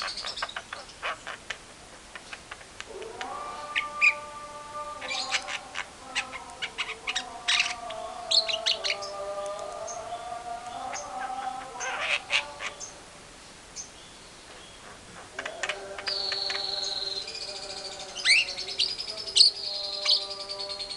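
Javan myna (jalak kebo) chattering with lovebird calls: a busy mix of sharp chirps and clicks over lower, drawn-out whistled notes. It goes quieter for a couple of seconds in the second half, then starts up again with a long high trill.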